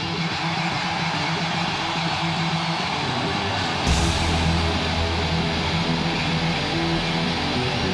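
A live rock band playing: heavily distorted electric guitar, with bass and cymbals crashing in about four seconds in.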